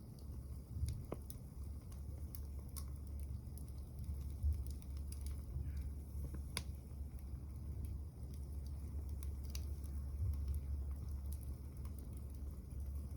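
Small wood fire burning in a wood-gas camp stove, crackling with irregular sharp pops over a steady low rumble.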